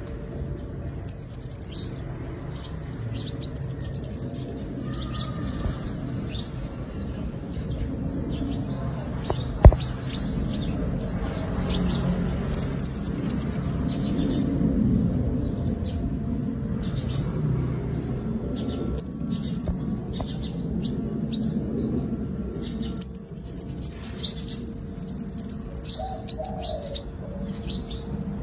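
Sunbird (the 'five-colour sunbird' of Vietnamese bird-keepers) singing: very high, fast-pulsed trills about a second long, repeated every few seconds, with quieter twitters between them. It is the bird's competitive song.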